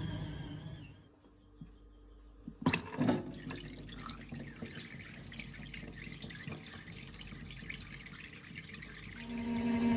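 Water running steadily from a tap, starting just after two sharp knocks. A steady hum begins near the end.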